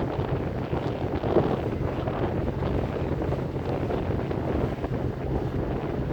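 A ferry boat's engine running with a steady low hum, with wind buffeting the microphone.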